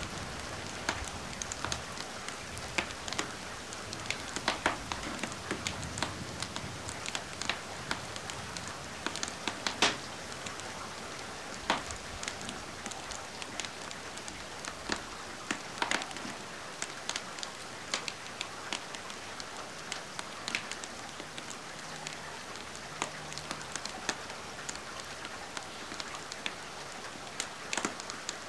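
Steady rain hiss with a wood fire crackling over it: frequent sharp pops and snaps at irregular intervals, a few louder than the rest.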